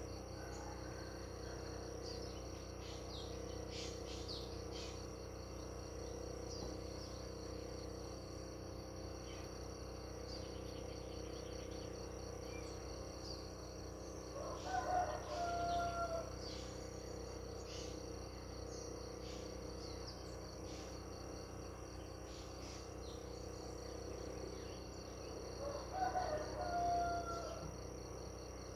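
Steady chorus of crickets, with short bird chirps scattered through it. Twice, about halfway and again near the end, a louder bird call lasts a second or so.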